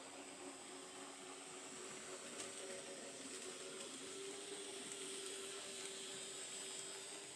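Small electric motor of an N gauge model locomotive running, a faint steady hum over hiss.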